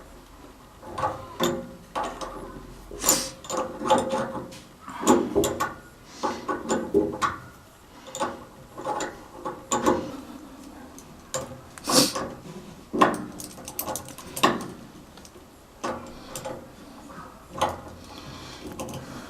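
Irregular clicking and clattering of hand tools and metal parts being handled during reassembly of a gas water heater's burner and pilot assembly, with a few sharper knocks. The sharpest knock comes about twelve seconds in.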